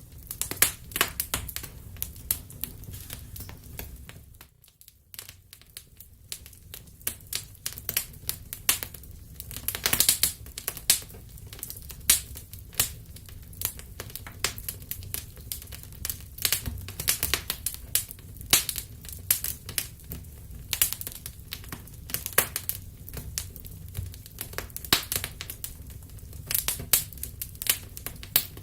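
Wood fire crackling, with many irregular sharp pops and snaps over a low steady rumble. The sound dips briefly about five seconds in, then carries on as before.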